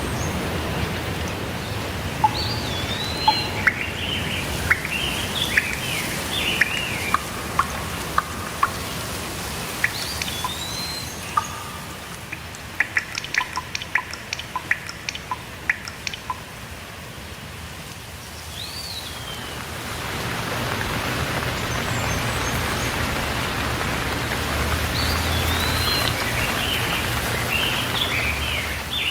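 Steady rainfall hiss with birds chirping and whistling over it, including repeated slurred up-and-down whistles. The rain thins in the middle, when a quick run of sharp ticks comes through, then swells again about two-thirds of the way in.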